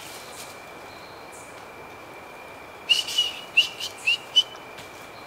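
A bird calling: a quick run of about five short whistled notes a little past halfway through, over a steady high-pitched drone.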